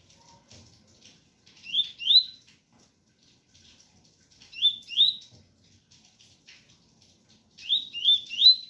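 Double-collared seedeater (coleiro) singing the 'tui-tui' song: short phrases of upward-sliding whistled notes, two about two seconds in, two around five seconds, and three near the end. Faint rain patter runs underneath.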